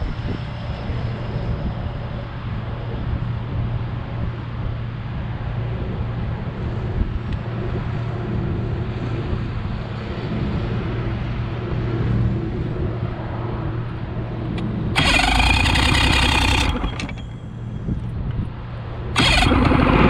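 Skeeter bass boat's outboard engine running steadily with a new fuel line fitted in place of a dry-rotted one that had made it die. About fifteen seconds in, a loud rushing noise rises for a couple of seconds, then comes again near the end.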